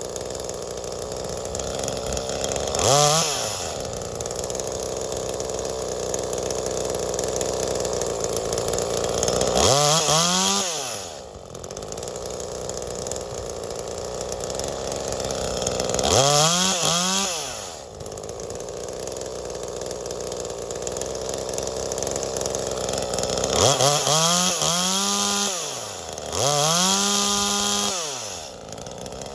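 V-Modest 2511T, a clone of the Echo 2511T two-stroke top-handle chainsaw, idling steadily and revved up to high speed and back five times. The first three revs are short blips; the two near the end are held at high revs for a second or two. This is the saw being run while its carburettor is tuned.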